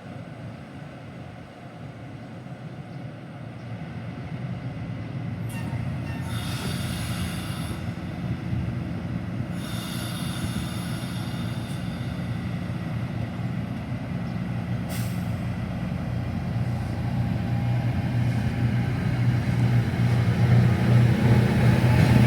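Train at a station: a low rumble and drone that grows steadily louder, broken by several hisses of air brakes, two of them lasting a couple of seconds each.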